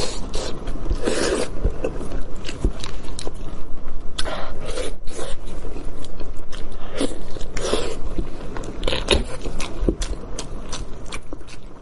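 Close-up eating sounds: wet chewing and lip smacking while meat on the bone is torn apart by gloved hands, with many irregular sticky clicks.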